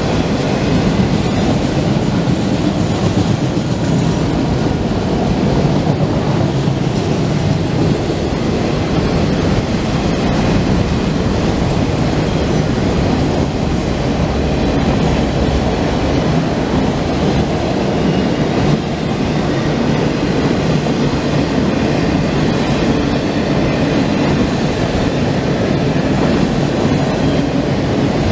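Multilevel autorack cars of a CSX freight train rolling past: a steady, loud rumble and clatter of steel wheels on the rails.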